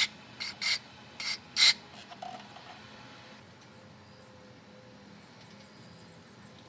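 Five short hissing bursts blown into a carburetor's fuel passages during cleaning, all within the first two seconds, followed by a few faint small clicks and handling sounds.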